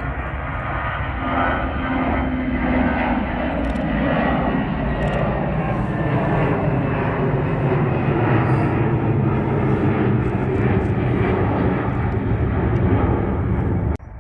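Airliner passing close by, its engine noise swelling over the first couple of seconds, then holding loud and steady before cutting off abruptly near the end.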